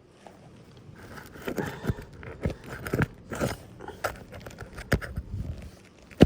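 Roofing tools working under asphalt shingles to free a shingle and its nails: irregular crunching, crackling scrapes and knocks, with one sharp knock at the very end.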